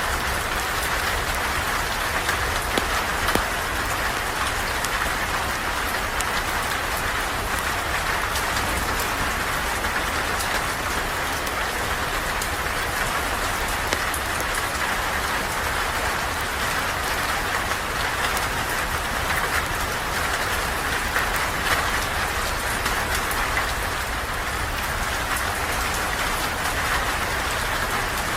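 Steady, even rain, with scattered sharp ticks of single drops.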